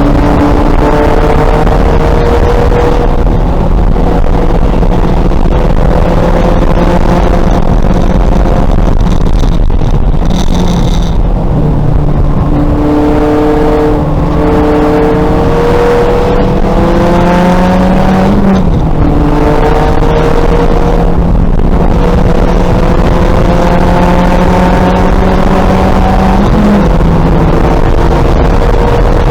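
2000 Volkswagen Golf race car's engine running hard at high revs, with road and wind noise. Its pitch climbs slowly and drops sharply twice in the second half at upshifts.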